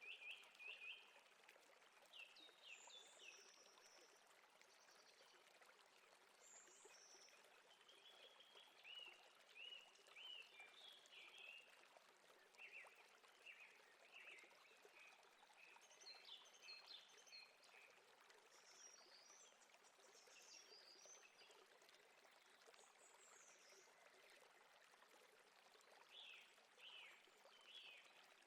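Faint nature ambience: a running stream with small birds chirping in quick runs of short, high notes.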